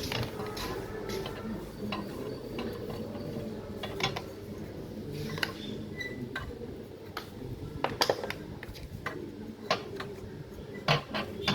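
Irregular metallic clicks and knocks of hand tools and loose parts being handled while an electric water heater is taken apart, with a few sharper knocks about 4, 8 and 11 seconds in.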